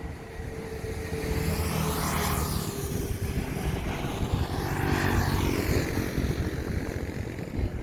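AirAsia twin-engine jet airliner passing overhead on landing approach, its engine noise swelling from about a second in and loudest around five seconds, with a steady hum that fades out in the first few seconds.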